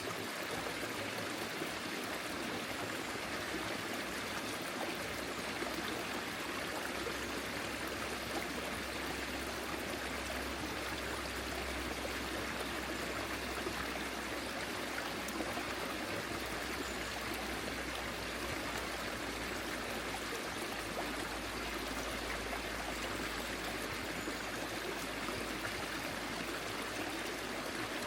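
Forest stream flowing steadily, a continuous rush and trickle of water.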